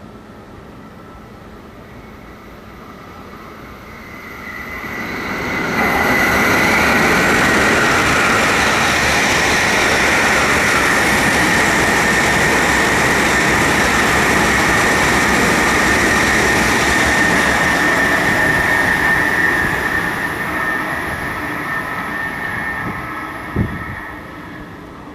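Tohoku Shinkansen coupled train passing through at speed: a rushing noise builds from about four seconds in, holds loud for about thirteen seconds, then fades away. A single short thump comes near the end.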